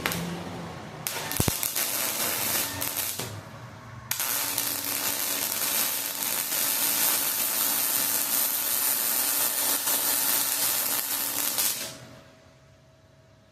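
Two bursts of loud, steady hissing noise, the first about two seconds long and the second about eight, each starting and cutting off abruptly, with a sharp click early in the first.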